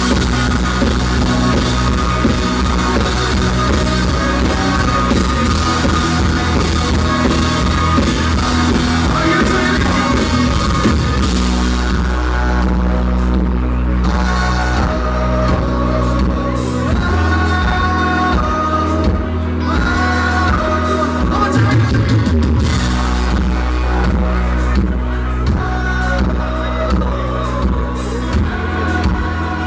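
Live country-rock band playing through a PA, with drum kit, electric guitar, bass and a singer, on a loud, boomy and distorted recording. The drumming is dense at first and thins out about eleven seconds in, leaving a heavy held bass under the voice.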